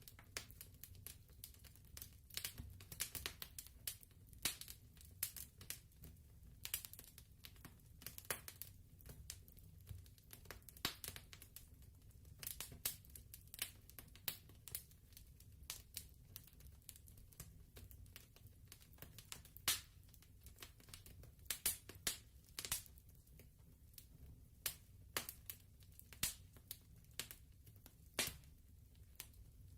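Fireplace fire crackling softly: irregular snaps and pops, several a second, over a low steady rumble.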